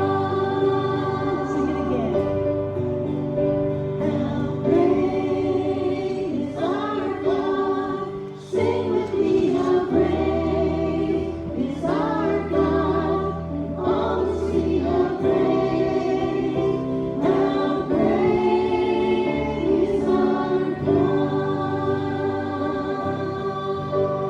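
A group of voices singing a gospel hymn together over instrumental accompaniment with steady low notes.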